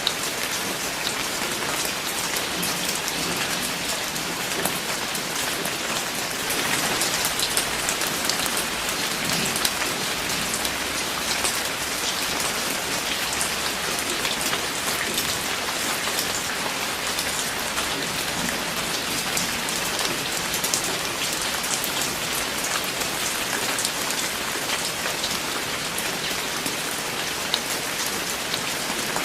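Steady rain falling, a dense patter of individual drops over a constant hiss. It grows a little heavier for a few seconds, about seven seconds in.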